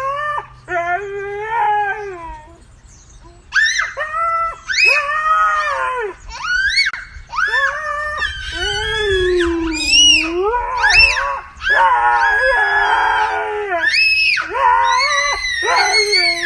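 A dog howling and yowling in a run of drawn-out calls that rise and fall in pitch, with a short pause a few seconds in.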